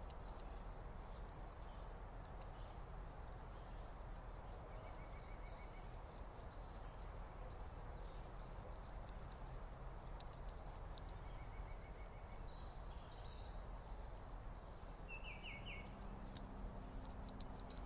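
Backyard birds chirping and calling faintly over a steady background hiss, with short rapid trills now and then and a quick run of falling notes about fifteen seconds in.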